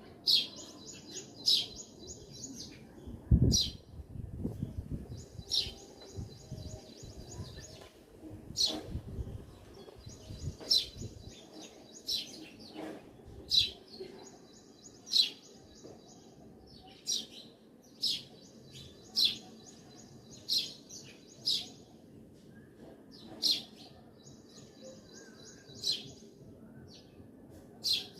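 Songbirds chirping: sharp single chirps every second or two, with rapid buzzy trills between them. A low thump about three seconds in, with some low rumble after it.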